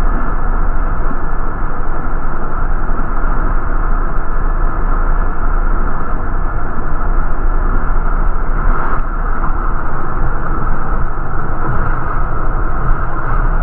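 Steady rumble and hiss of a city bus in motion, heard from inside the cabin, with a brief swell about nine seconds in.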